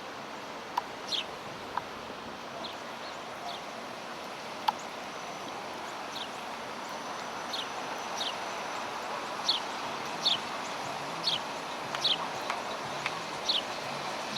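A small songbird chirping repeatedly, short high notes that drop in pitch, coming more often in the second half. Under it is a steady hiss of wind muffled by a foam-covered microphone, with a few sharp clicks in the first seconds.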